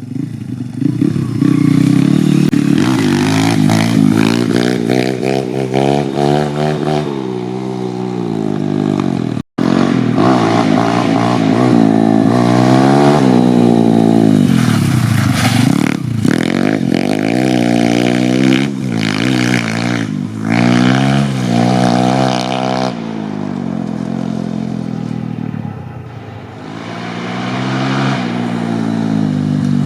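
YCF 150 Classic pit bike's 150cc four-stroke single-cylinder engine ridden wide open, revving up and shifting so the pitch climbs and falls over and over. It eases off to a lower, quieter run about three quarters of the way through, then climbs again.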